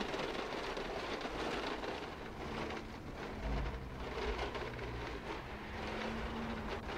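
A small wagon rattling over a concrete sidewalk, with plastic bags rustling, over city street traffic noise.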